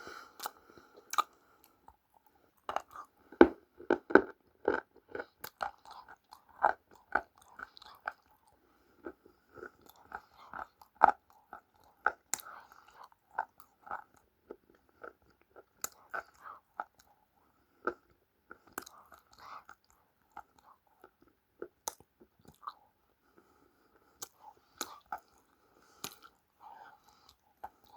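Close-up chewing of crunchy food: irregular crisp crunches and bites, loudest about four seconds in and again around eleven seconds.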